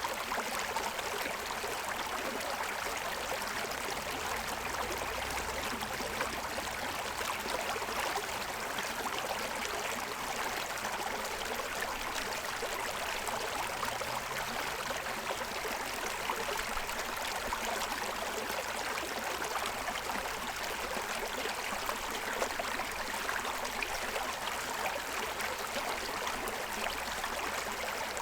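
Forest stream running over the stones of its bed: a steady, even rushing of water.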